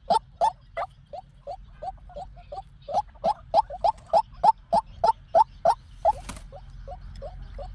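White-breasted waterhen calling: a long, rapid series of short croaking notes, about three a second, louder in the middle stretch and fainter toward the end. A brief noisy burst comes about six seconds in.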